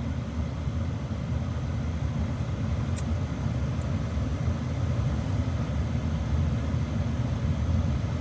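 Steady low rumble of a vehicle idling, heard from inside the cab, with a couple of faint clicks about three seconds in.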